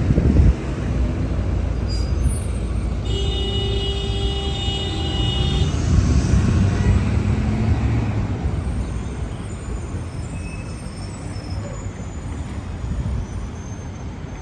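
Road traffic with a bus going by: a low engine rumble that fades over the last few seconds. A steady tone of several pitches sounds for about three seconds near the middle.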